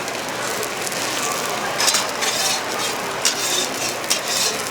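Korean pancakes (jeon) sizzling as they fry on an oiled griddle, with a metal spatula scraping and clicking against the griddle several times in the second half.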